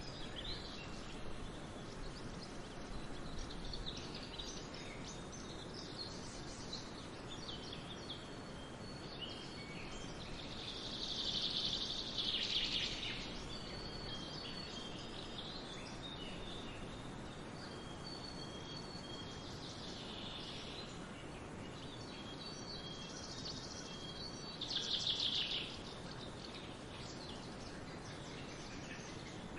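Small birds chirping and singing high over a steady background hiss, with two louder rapid trilling phrases, one near the middle and one later.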